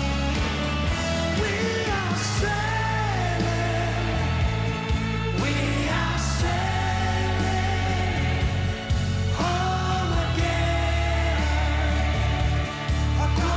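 Live rock band playing, with a lead vocal singing melodic lines over steady bass and guitar.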